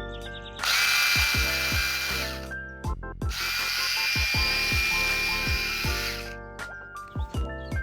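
Cordless mini electric chainsaw running in two bursts, the first about two seconds long and the second about three, each a high steady motor whine over a loud hiss.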